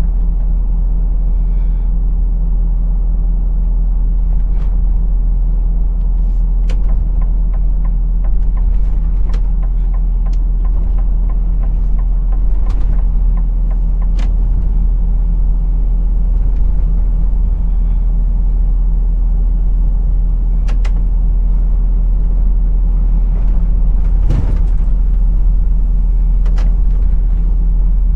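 Lorry engine running at a steady speed with low road rumble, and scattered sharp clicks and rattles throughout.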